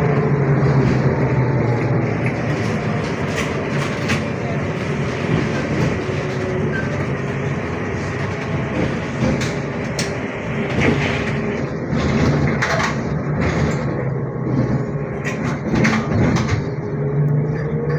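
Inside a ZiU-682G trolleybus under way: steady running noise with rattles and knocks from the body. The electric traction motor's whine falls at the start and rises again near the end.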